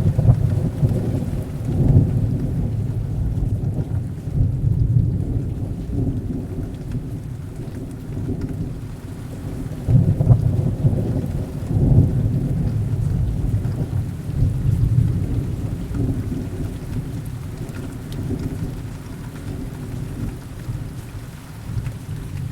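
Rolling thunder over steady heavy rain. The rumble comes in suddenly at the start, swells again about ten seconds in, then slowly fades.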